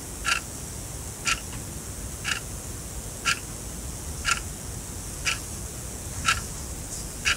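Sonam quartz analog alarm clock ticking: one short, sharp tick each second as the quartz movement steps the second hand.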